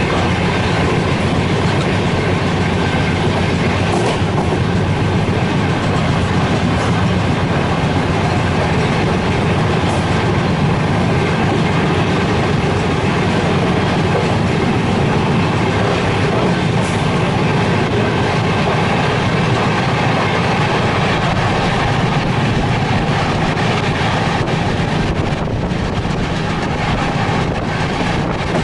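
Express passenger train running at speed: the steady rumble and rattle of the coach travelling over the rails.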